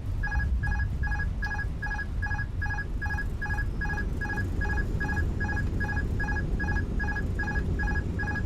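Airbus A320 cockpit warning alert beeping rapidly and evenly, about two and a half short beeps a second, over a steady low rumble from the aircraft rolling on the runway.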